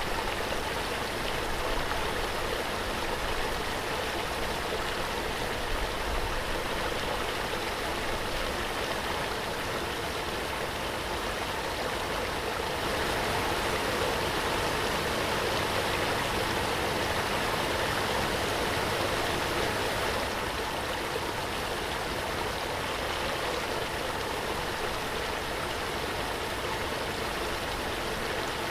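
Waterfall: a steady rush of falling and splashing water, a little louder for several seconds in the middle.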